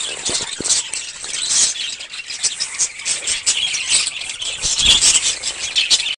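A large flock of birds calling together: a dense, continuous chatter of many high, squeaky calls that cuts off suddenly at the end.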